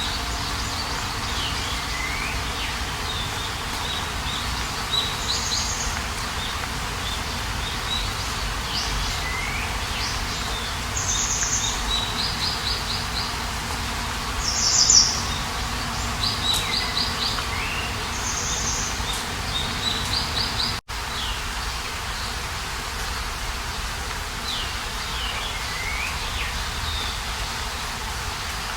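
Several birds calling and singing, with repeated short high trills and downward-sweeping notes every few seconds, over a steady low background noise. The sound cuts out for a moment about 21 seconds in.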